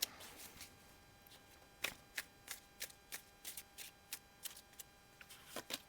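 A string of faint, sharp, irregular ticks and taps, about two or three a second, starting about two seconds in: tarot cards being handled and laid on a table.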